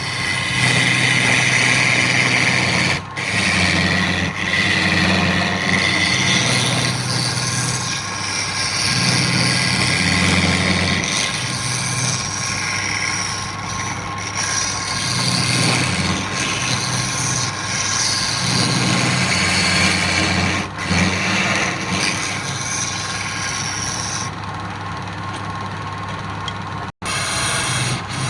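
Wood lathe running with a steady motor hum while a tool works the spinning wood, a rough scraping hiss over the hum. The hiss drops away near the end, then a sudden break.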